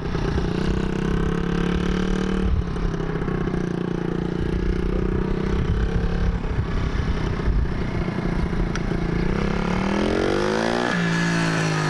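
Small kick-start dirt bike engine running under throttle as it is ridden in second gear. Near the end the engine note climbs and then drops sharply.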